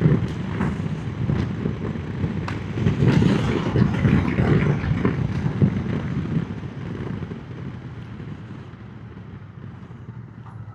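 Triumph motorcycle on the move, its engine running under wind rush on the microphone; the sound gets quieter about six seconds in.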